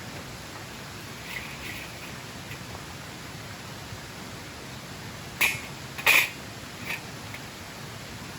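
Steady hiss of background noise with a few short, sharp snaps or clicks, the loudest two about five and six seconds in and a smaller one just before the end.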